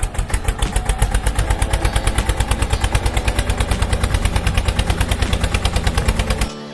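Tractor engine chugging with a fast, even beat of about nine pulses a second, cutting off suddenly near the end.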